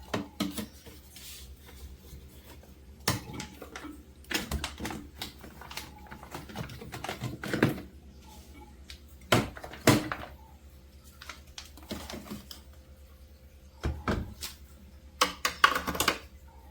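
Food containers and bottles being set down on refrigerator shelves: irregular knocks, clunks and clatters, with a quick run of them near the end.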